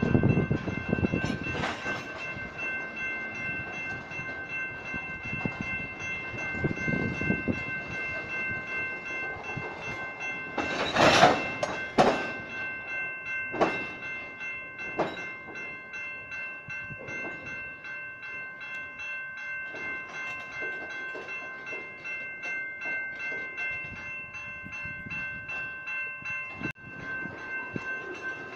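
Grade-crossing electronic bells (General Signals type) ringing steadily with a fast repeating tone, over the low rumble of BNSF diesel locomotives moving through the crossing. A loud burst of noise comes about eleven seconds in, followed by a few sharp knocks.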